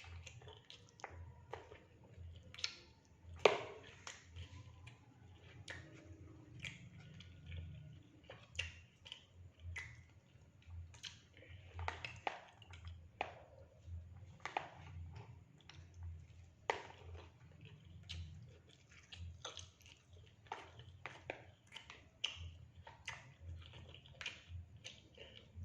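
Close-miked chewing of fried rice and fried fish: irregular wet mouth clicks and smacks, with one sharper click about three and a half seconds in.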